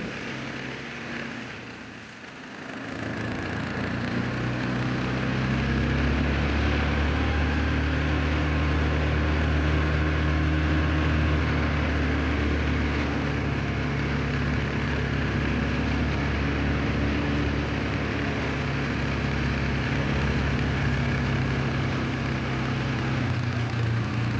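An engine running steadily, swelling in level over the first few seconds and then holding an even, low note.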